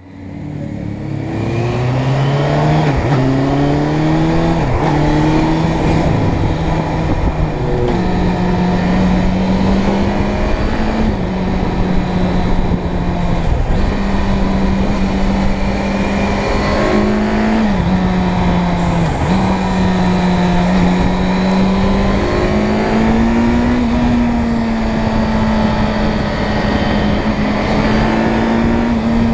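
Inline-four motorcycle engine running under load while riding, fading in over the first second or so. Its pitch rises under throttle and jumps abruptly to a new level every few seconds as gears are changed, over a steady rush of wind.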